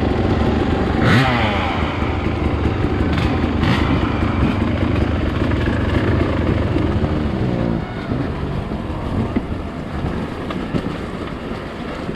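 Dirt bike engine revving up and down as it is ridden over rough trail, with a few sharp knocks about one and three seconds in. The engine eases off about eight seconds in.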